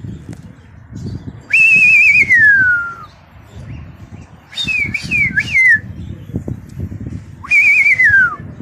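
Loud whistling in three phrases. The first is a warbling note that glides downward, the second a short run of broken notes, and the third another warbling downward glide. A low, uneven rumbling noise runs underneath.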